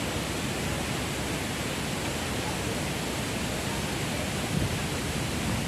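Strong wind blowing steadily, a constant even rushing hiss.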